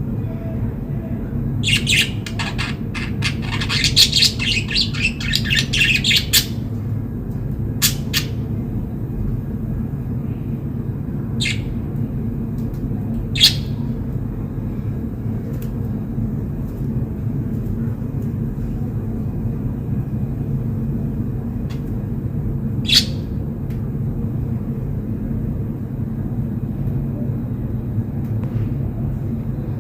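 Budgerigars chirping: a quick run of twittering chirps in the first few seconds, then single chirps every few seconds, over a steady low hum.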